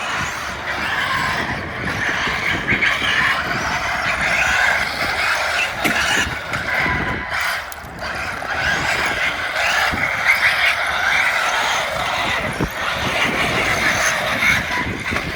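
Radio-controlled cars driving, their electric motors whining and tyres scrabbling over the ground, rising and falling as they speed up and slow down.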